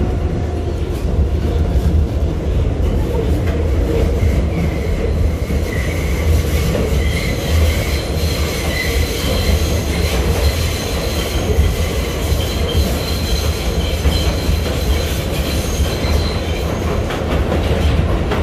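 NYC Subway R68-series car running between stations, heard from inside: a steady low rumble from wheels and motors. About a third of the way in, a high wheel squeal sets in, holds for several seconds, then fades before the end.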